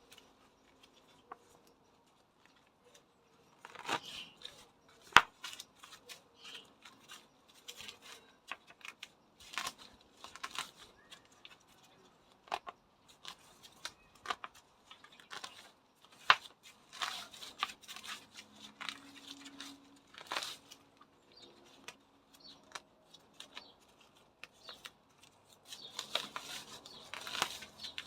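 Hand pruning shears snipping through hedge and plant stems, with irregular sharp cuts and rustling of cut foliage.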